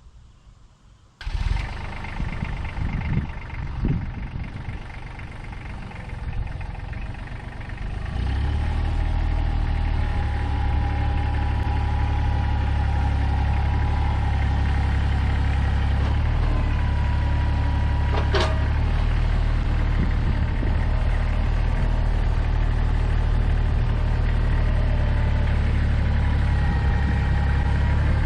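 Tractor engine running, pulling harder from about eight seconds in as the grapple's hydraulics lift a heavy, rain-soaked maple log, with a steady whine over the engine. There is a single sharp metal clank about eighteen seconds in.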